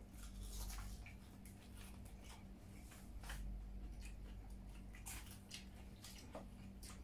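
Faint chewing and mouth sounds of people eating fried food by hand: scattered small crunches, clicks and lip smacks over a steady low hum.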